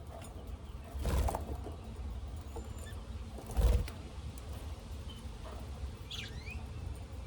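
Pet cage birds, budgies and lovebirds, with a few short high chirps near the end. Two brief noisy bursts come about a second in and about halfway through, the second the loudest, over a steady low rumble.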